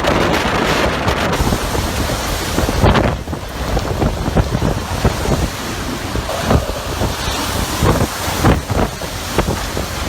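Typhoon wind gusting hard, a loud, dense rushing noise with sharp buffets striking the microphone every second or so.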